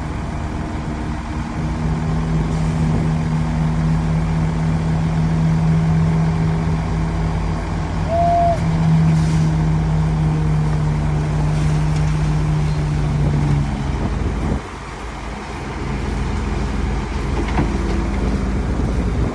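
Heavy diesel engine running steadily under load; about fourteen and a half seconds in, its note drops and it runs quieter. A single short high beep sounds about eight seconds in.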